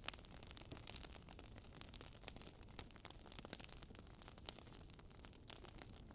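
Wood fire crackling in a fireplace: faint, irregular sharp pops and snaps, several a second, over a soft hiss.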